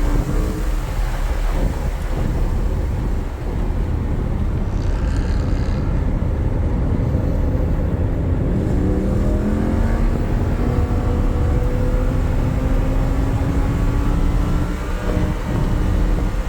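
Lamborghini Huracán's V10 engine running hard under load, mixed with road and wind noise. About halfway through, its pitch begins a long, steady climb as the car accelerates through a gear.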